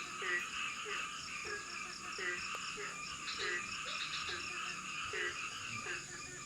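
Frogs calling in chorus: short, downward-sliding calls repeating about twice a second, over a steady high-pitched hum.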